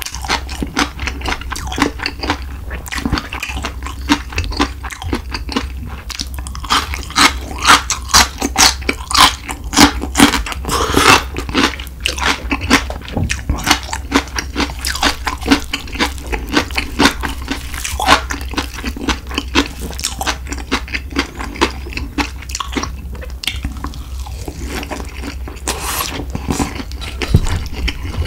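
Close-miked eating: wet chewing and crunching of mustard-leaf kimchi and spicy stir-fried pork with bean sprouts, with the loudest crunches about a third of the way in. A steady low hum runs underneath.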